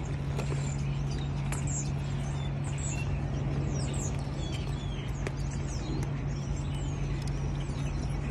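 Small birds chirping: many short, high calls sliding down in pitch. Under them runs a steady low hum, with a few light clicks.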